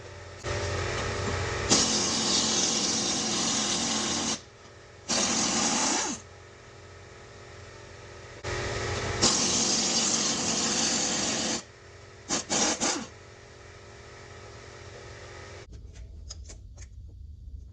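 Power tool run in bursts: about four seconds, a one-second burst, about three seconds, then a few quick short blips near the end.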